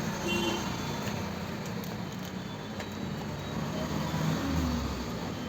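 Road traffic noise: a steady rumble of passing vehicles, with a deeper low rumble rising about four and a half seconds in.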